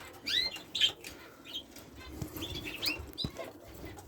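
Budgerigars chirping: short, high, curved calls coming every half second or so, with a couple of faint knocks in between.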